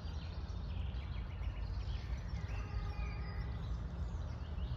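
Songbirds chirping and singing, with many short rapid chirps over a steady low rumble.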